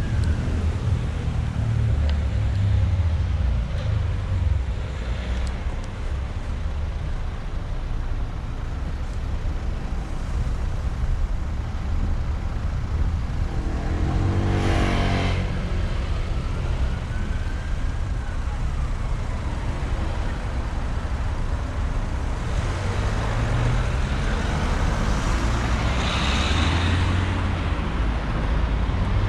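Street traffic: a steady low rumble of cars, with one vehicle passing close about halfway through.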